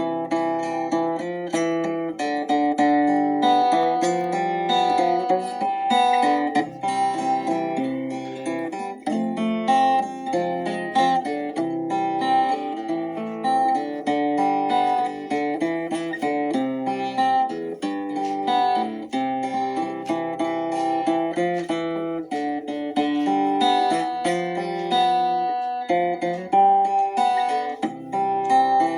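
Instrumental music played on acoustic guitar, plucked notes moving through a calm melody and chords.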